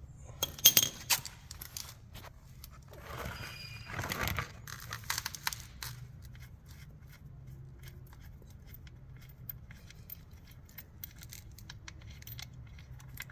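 Hand work on a motorcycle during an oil change: a run of sharp clicks and clinks of tools and small parts being handled, a short rustle about three to five seconds in, then scattered lighter clicks.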